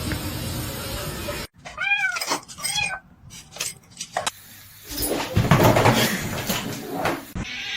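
Domestic cat meowing: two short meows near two seconds in, each rising then falling in pitch. Abrupt cuts come before and after, and a louder stretch of unclear noise fills the second half.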